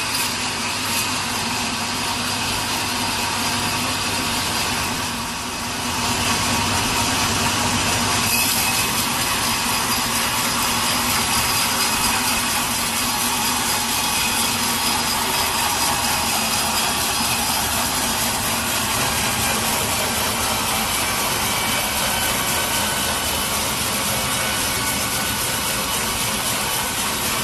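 Sawmill saw cutting through a large log: a steady machine noise with the rasp of the blade, dipping briefly about five seconds in and then going on steadily.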